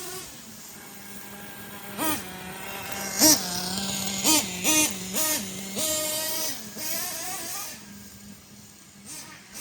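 Ofna Titan monster truck's .25 nitro two-stroke engine running at a steady drone while warming up. It is blipped on the throttle about six times between two and six seconds in, each rev rising sharply in pitch and dropping back, then it settles down again.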